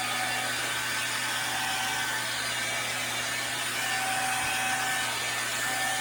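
Swiffer Sweep and Vac cordless stick vacuum running steadily, a motor hum with a thin high whine, as it is pushed back and forth over the floor.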